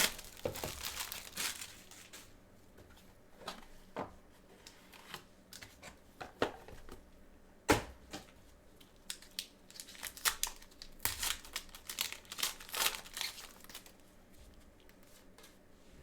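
Wrapper on a trading card box crinkling and tearing as the box is opened by hand, in irregular rustles with a few sharp clicks of cardboard and cards being handled.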